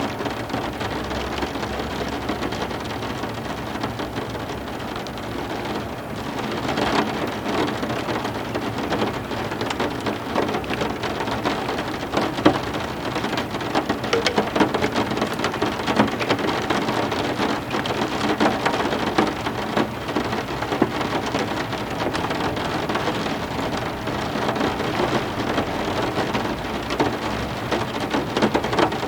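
Heavy rain falling steadily, a dense wash of drops with many sharp close drops ticking on hard surfaces, growing a little louder about six seconds in.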